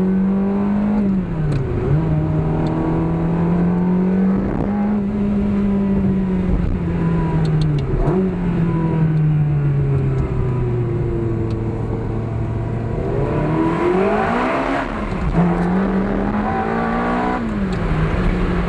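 2000 Ferrari 360 Modena's 3.6-litre V8 through a Maxflo sport muffler, heard from inside the cabin as the car pulls through the gears. The engine note climbs and drops sharply at each of several gear changes, and it revs hardest about two-thirds of the way through.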